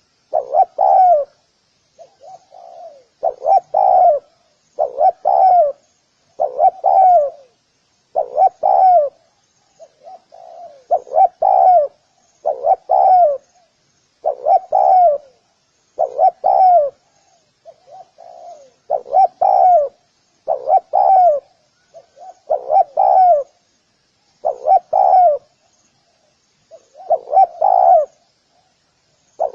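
Spotted dove cooing over and over, each phrase a short run of low, mellow coos, with a phrase about every one to two seconds and brief silences between them. A faint high twittering of other small birds runs underneath.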